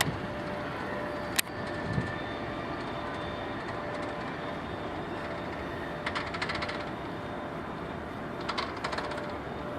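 Ballast train's freight cars rolling past with a steady rumble, their wheels clicking in quick clusters over rail joints about six seconds in and again near the end.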